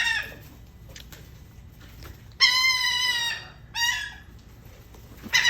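Gulls calling: a call trailing off at the start, a long drawn call about two and a half seconds in, then a short call, and another beginning near the end.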